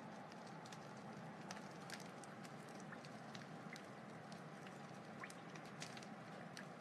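Wood fire crackling: irregular sharp pops and snaps scattered over a soft steady hiss.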